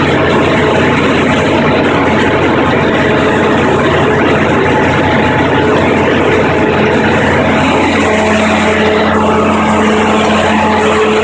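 Onan 30EK natural-gas generator set running at a steady speed, its engine giving a loud, even drone with a constant hum.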